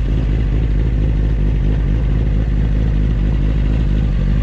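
Kawasaki Ninja ZX-9R's inline-four engine running steadily at low revs while the motorcycle rolls slowly along the road.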